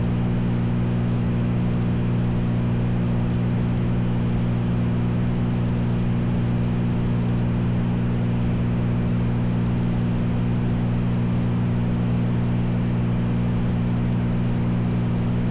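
Cessna 182's piston engine and propeller droning steadily in flight, an even low hum with hiss over it and no change in power.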